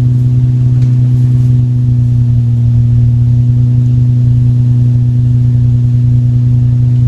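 Infiniti G35's 3.5-litre V6 engine running steadily with an unchanging low hum, still warming up after a cold start.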